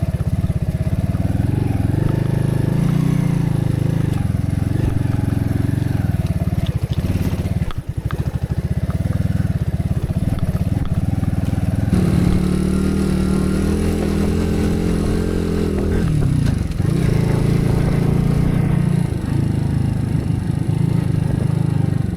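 Small vehicle engine running under way, its pitch shifting as it speeds up and slows, with a brief dip about two-thirds of the way through before it picks up again.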